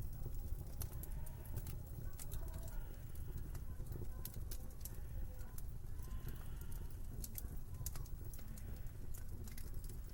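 Wood fire crackling in a fireplace, with irregular sharp pops and snaps over a steady low rumble and a faint wavering whistle of winter wind.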